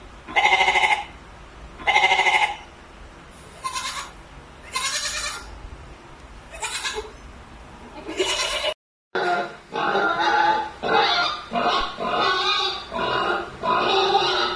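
Goats bleating: two loud bleats, then several fainter ones. After an abrupt cut, a denser run of quick animal calls, about two a second.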